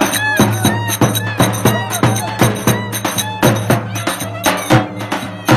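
Traditional folk dance music: a steady drum beat under a melody line that bends up and down in quick ornaments.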